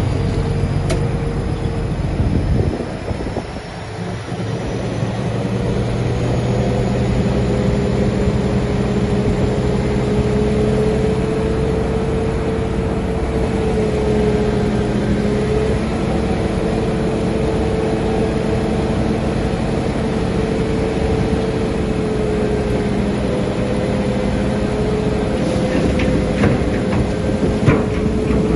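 Shantui bulldozer's diesel engine running steadily under work. It eases off briefly about three seconds in and then builds back up, with a thin high whine rising over the first ten seconds. A few sharp knocks come near the end.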